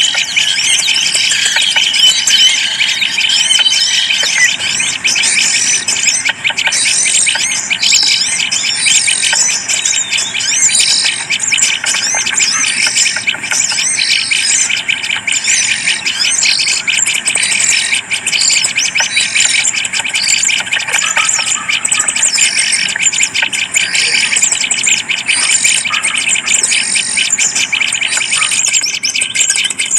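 Small birds chirping and squealing continuously in a dense, high-pitched chatter of many quick overlapping calls.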